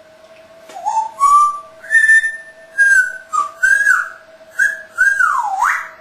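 Parrot whistling a run of about eight clear notes, some held and some sliding up or down, ending in one long whistle that swoops down and back up.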